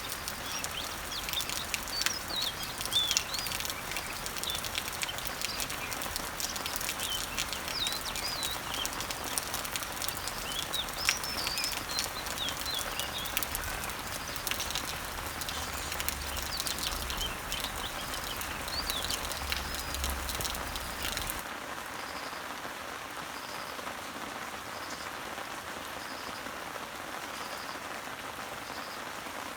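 Rain pattering on garden leaves with birds chirping. About two-thirds of the way through, the sound changes suddenly: the chirps stop and the rain becomes a steadier, softer hiss.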